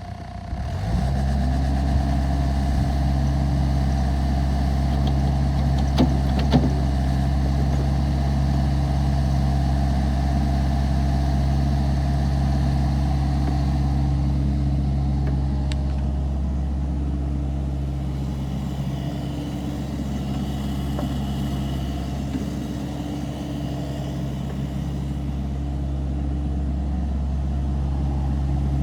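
Diesel engine of a Volvo ECR50D compact excavator starting about a second in, then running steadily. There are two sharp clicks around six seconds, and the engine is slightly quieter for a few seconds past the middle.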